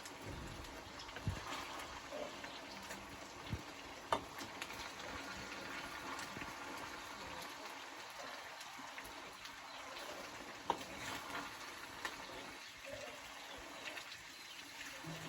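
Chicken curry simmering in a covered pot: a steady low hiss with scattered sharp clicks and ticks.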